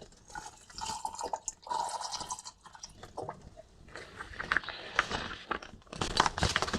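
Water being poured into a cup, a trickle lasting about a second and a half, followed a couple of seconds later by a run of small clicks and knocks of handling.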